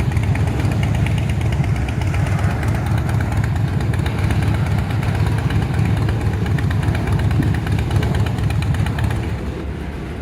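Norfolk Southern freight train passing: a steady, loud, low rumble with a rapid throb that falls off about nine seconds in.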